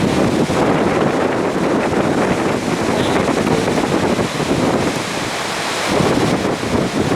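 Strong wind buffeting the microphone: a loud, gusty rumble and rush that eases a little for a moment about five seconds in.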